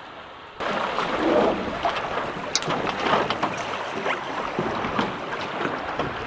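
Wind buffeting the microphone with water splashing around sailing boats on the water, starting abruptly about half a second in.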